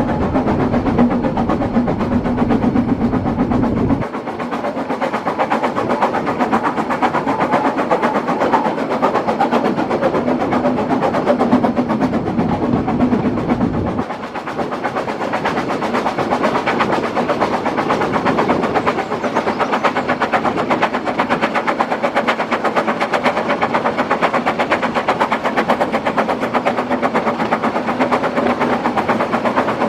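Narrow-gauge steam train running, heard from an open coach: a continuous rapid clatter and rattle of the wheels and coach on the track. The low rumble drops away abruptly about four seconds in and again near the middle.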